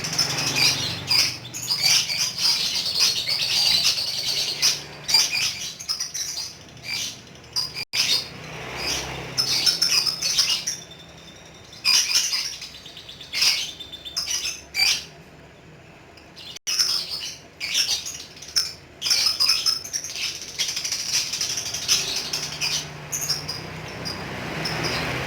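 Lovebird chattering in fast runs of high chirps, its long 'ngekek' song, thinning into separate bursts with a couple of short pauses in the middle before running on again.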